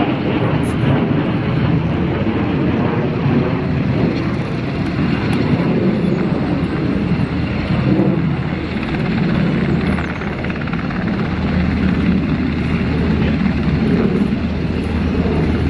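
Sikorsky HH-60G Pave Hawk helicopter running steadily, its rotor and twin turboshaft engines making a loud continuous noise with a low hum under it.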